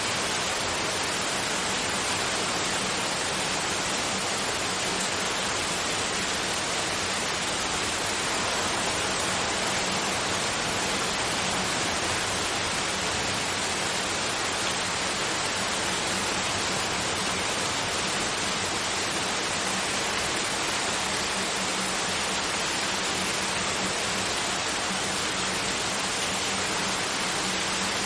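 Continuous white noise: a steady, even hiss across the range that does not change, with a faint steady low tone beneath it.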